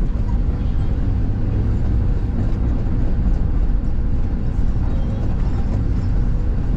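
Excavator diesel engine running steadily under load as the machine works, heard from the operator's cab.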